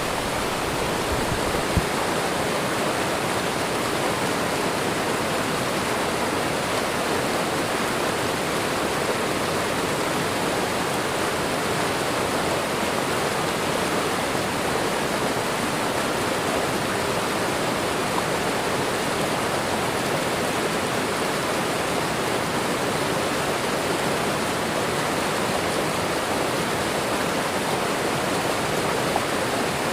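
Waterfall: running water pouring and splashing in a steady, unchanging rush.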